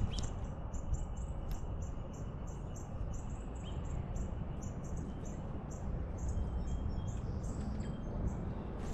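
A steady train of short, high-pitched chirps, about three a second, from a small bird or insect, over a low outdoor rumble.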